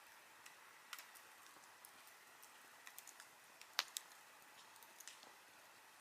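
Campfire wood crackling faintly: scattered irregular pops and snaps over a soft hiss, with one sharper snap a little before four seconds in.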